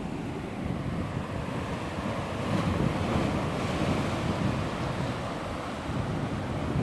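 Atlantic Ocean waves washing against the Newfoundland shore, a steady rush of surf that swells about two and a half seconds in, with wind buffeting the microphone.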